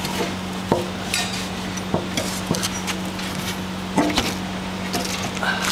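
Scattered metallic clinks and knocks of a wrench and wheel bolts as a drive wheel is unbolted by hand, over a steady low hum.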